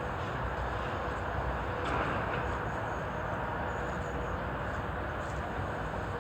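Wind blowing: a steady rushing noise with a low rumble from gusts on the microphone.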